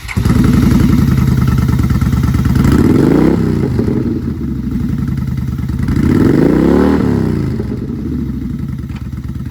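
Yamaha V-Star 950's air-cooled V-twin running through an aftermarket Cobra exhaust, blipped up in revs and back down twice, about three seconds in and again near seven seconds.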